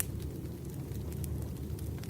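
Campfire crackling: a steady low rumble of burning wood with scattered sharp snaps and pops, the sharpest at the very start.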